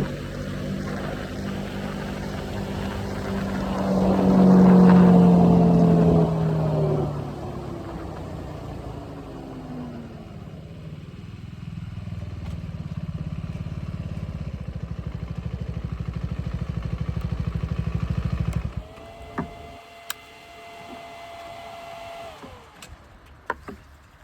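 Triumph Scrambler 400X's single-cylinder engine slowing down with a falling pitch, then idling with an even low pulse, and cut off suddenly near the end. A steady tone sounds for a few seconds after the engine stops, followed by a few clicks.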